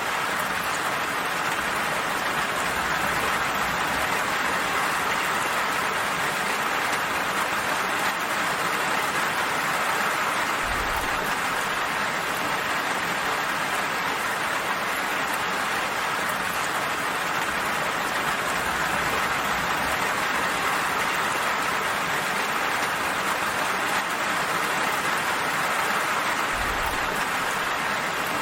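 Steady rain falling, a dense even patter with no break. Two brief low thumps come through, about eleven seconds in and again near the end.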